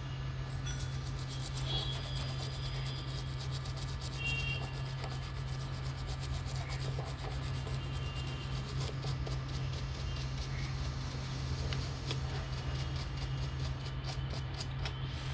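Rapid, repeated fine scratching and rubbing of a tool on an ECU circuit board during IC soldering work, over a steady low hum.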